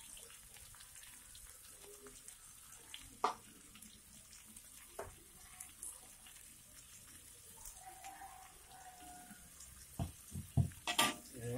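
Sliced onion and ground shallot-garlic paste sizzling faintly in hot oil in a wok, with a few light clicks. Near the end a metal spatula knocks several times against the wok.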